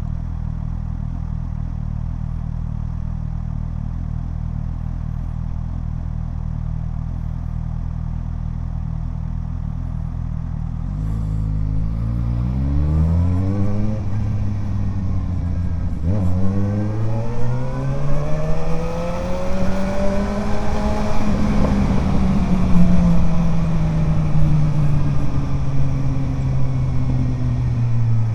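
Suzuki GSR 750 inline-four with an Ixrace Z7 aftermarket exhaust, idling steadily for about eleven seconds. It then pulls away with rising revs, breaks briefly at an upshift, and climbs again to a peak. Near the end it eases off as the revs slowly fall.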